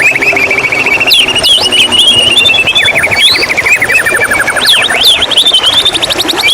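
White-rumped shama singing: long, fast trills of rapidly repeated notes mixed with short rising and falling whistles.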